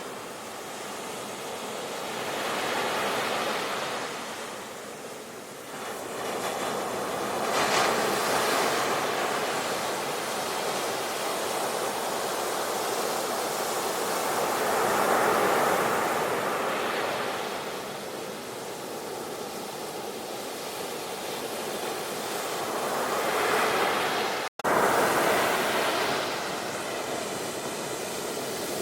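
Sea waves breaking and washing up the shore, the surf swelling and fading every few seconds, with a split-second gap in the sound about three-quarters of the way through.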